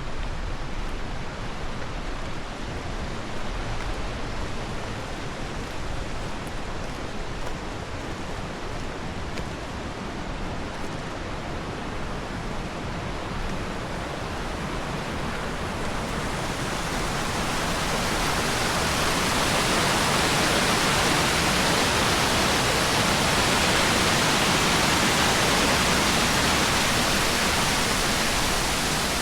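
Rushing water, a steady hiss that swells louder and brighter about two-thirds of the way through.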